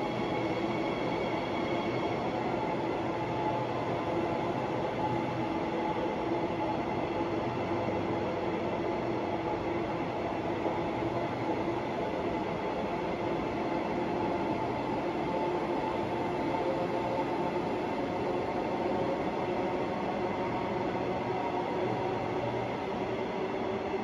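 Transperth electric train rolling slowly past an underground station platform: a steady running noise with the whine of its traction motors holding a nearly level pitch.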